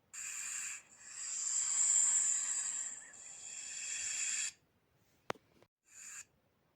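Snake hissing in separate breaths: a short hiss, then a long one that swells and fades over about three and a half seconds, a sharp click about five seconds in, and another short hiss near the end.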